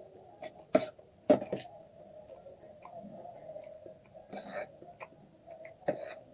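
Close-miked mouth sounds of someone eating egg chowmein: a few sharp smacks and clicks, the loudest near the start, and a short breathy burst partway through, over a steady background hum.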